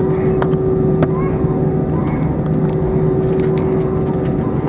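Steady cabin noise inside an Airbus A320: an even engine rumble with a constant hum, and a couple of short clicks near the start.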